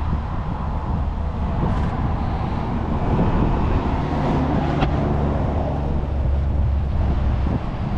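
A machine running with a steady low rumble, joined by a low hum partway through that stops shortly before the end.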